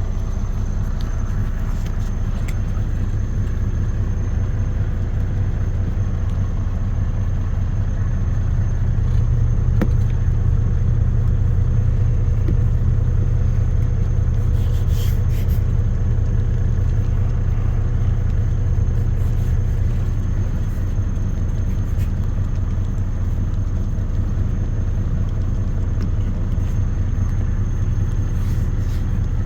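Low, steady rumble of a day cab tractor truck's diesel engine running, heard from inside the cab; it grows a little louder about eight seconds in, with a few faint clicks.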